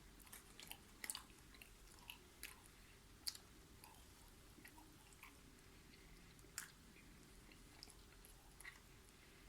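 Faint close-up chewing of a bite of döner kebab meat, with scattered soft mouth clicks.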